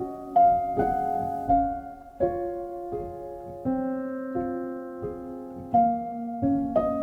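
Background piano music: gentle, slow notes and chords struck about every half second to a second.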